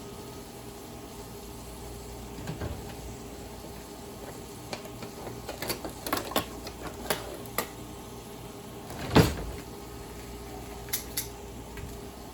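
Someone rummaging through kitchen utensils: a scatter of sharp clicks and clinks, one louder knock about nine seconds in, and two more clicks near the end, over a steady low hum.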